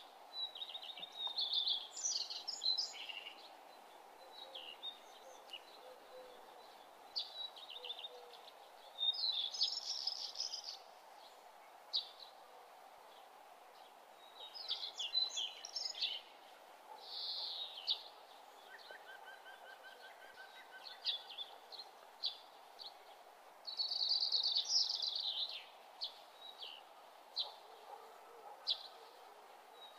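Small birds singing and chirping in short, quick phrases every few seconds, over a steady faint background hiss.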